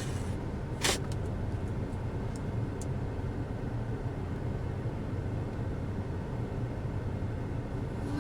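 Steady low rumble of a car heard from inside the cabin, with a single sharp click about a second in.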